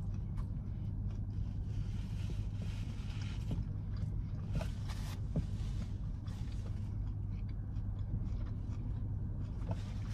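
A person chewing a mouthful of cheeseburger, with a few faint scattered clicks, over a low steady hum inside a parked car.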